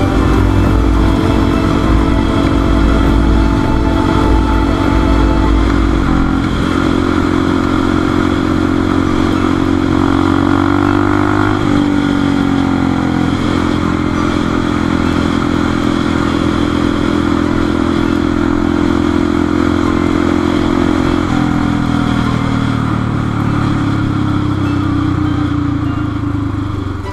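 Motorcycle engine running under way, its pitch stepping up and down through the middle as the rider works the throttle and gears. Over the last several seconds the engine note falls steadily as the bike slows.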